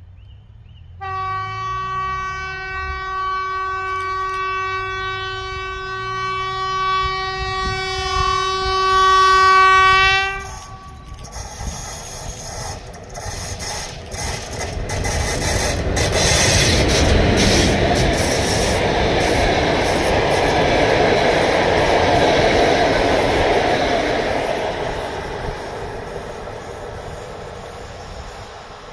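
EP05 electric locomotive sounding one long, steady horn note for about nine seconds as it approaches. Then the locomotive and its four passenger coaches pass, wheels clattering over the rail joints. The clatter swells and fades away near the end.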